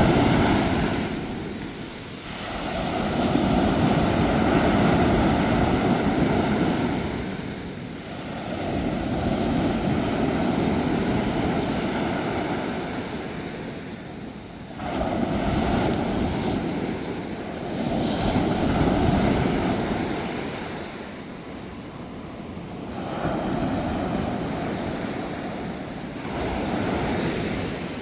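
Sea waves breaking and washing in, the noise swelling and fading again every few seconds.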